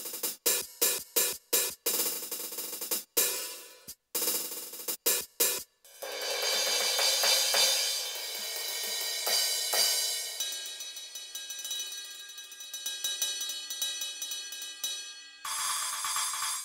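Roland TD-8 electronic drum module's cymbal and hi-hat sounds triggered from the pads: a string of single hits with short gaps, then cymbals left ringing for several seconds with quick light ticks over them.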